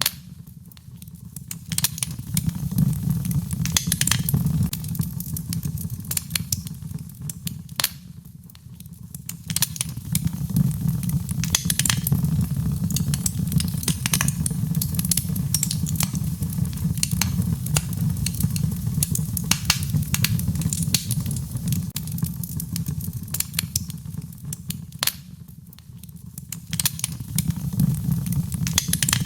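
Wood fire in a fireplace crackling, with frequent sharp pops and snaps over a low rumble of flames. The rumble dips quieter a few times and swells back.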